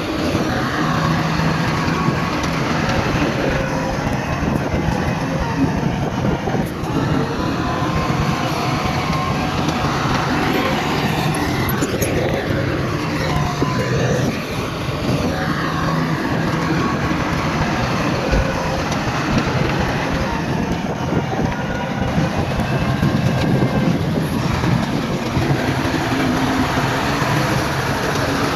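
Heavy earthmoving machinery running continuously, with diesel engines rising and falling in pitch as they work.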